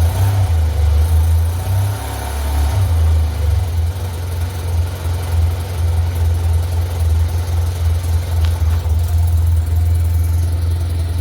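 2008 Yamaha TMax XP500's 499 cc parallel-twin engine idling steadily just after a cold start at −1 °C, following more than three months without running.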